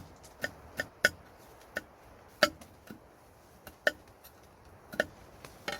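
Irregular sharp knocks of a blade chopping on wood, about ten strokes spaced unevenly.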